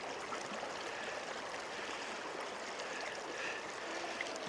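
Shallow creek water flowing and babbling steadily over rocks.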